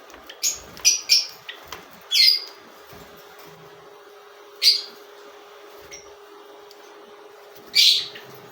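Small parrots giving shrill, high-pitched squawking calls, about six short bursts at irregular intervals, over a faint steady hum.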